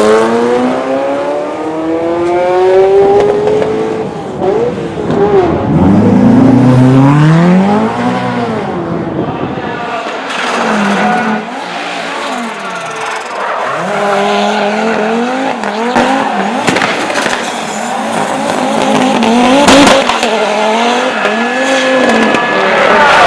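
High-performance car engine accelerating hard, its pitch climbing steadily for about four seconds, then rising and falling again and again as the car revs, accelerates and lifts off.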